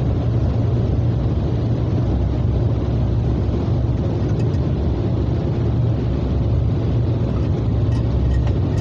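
Steady low rumble of an idling car engine, an even hum with no changes.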